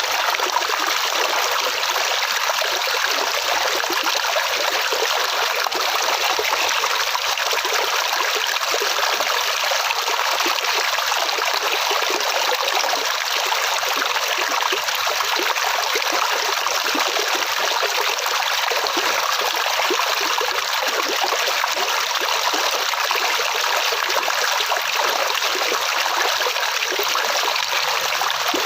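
Flowing water, a steady stream trickling and burbling without letup.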